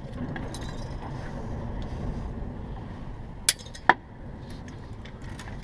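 Two sharp metallic clicks about half a second apart, midway through, as stainless steel lock wire is worked with pliers at the oil filter. They sit over a steady low background hum.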